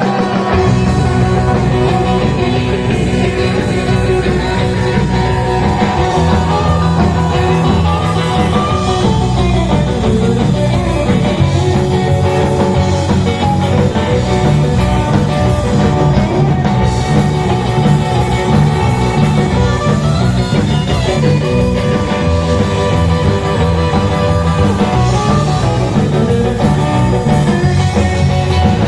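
Rock and roll band playing an instrumental break: guitar over bass and drum kit.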